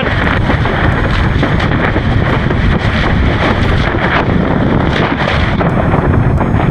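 Loud, steady wind buffeting the microphone of a windsurfer racing at speed in high wind.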